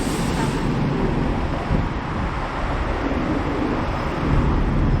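Hong Kong double-decker tram running along the street: a steady low rumble with road traffic around it.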